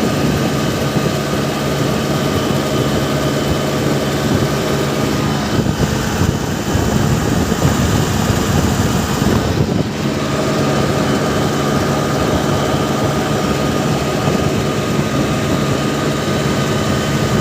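Mahindra tractor-loader's diesel engine running with a steady note; from about five and a half to ten seconds in the note wavers and breaks up as the engine speed changes, then settles back to steady running.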